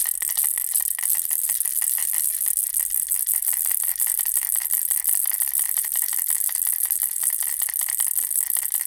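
Baby rattle toy, a bear on a ball, shaken continuously: a dense, even, high-pitched rattling of many small rapid clicks.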